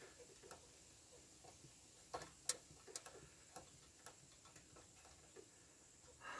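Quiet hand-tool work: scattered faint metal clicks and taps of a spanner and fittings being handled, with a few sharper ones about two to two and a half seconds in.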